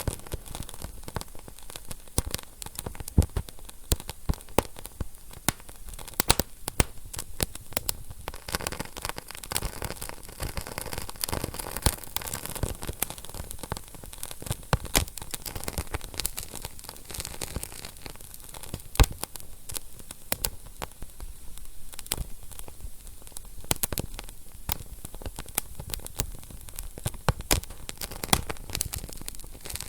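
Wood fire burning in a fireplace: a steady soft hiss with frequent sharp, irregular crackles and pops from the burning logs.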